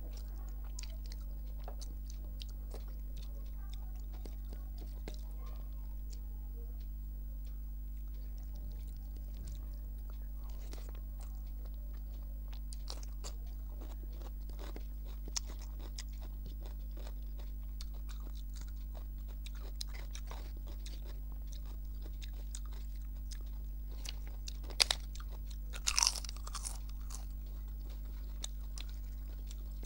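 Close-miked chewing and wet mouth clicks of someone eating rice and curry by hand. A few loud crisp crunches come near the end. A steady low hum runs underneath.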